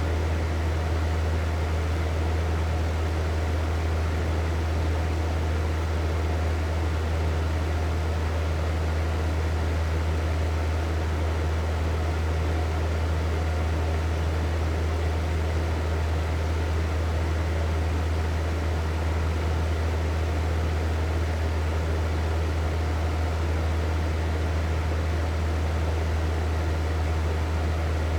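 Hair dryer running steadily at constant speed: an even rush of air over a strong low hum.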